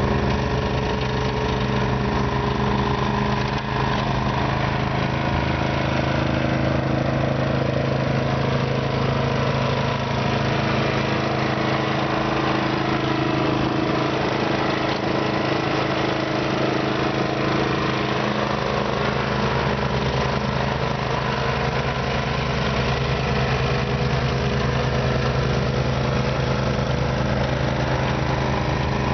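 Simplicity snow blower engine running steadily, its note sagging a little during the first half and recovering later on.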